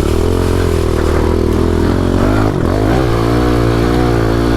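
Pit bike engine running steadily under throttle, close and loud. Its pitch dips and picks back up about two and a half seconds in.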